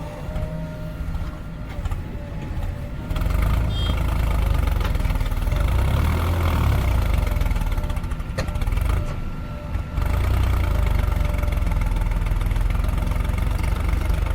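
JCB 3DX backhoe loader's diesel engine running steadily, coming in loud about three seconds in after a few seconds of music, with a brief dip in level around ten seconds.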